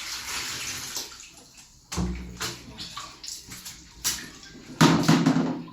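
Water sloshing and splashing in a basin as clothes are washed by hand, in a few separate splashes, the loudest near the end.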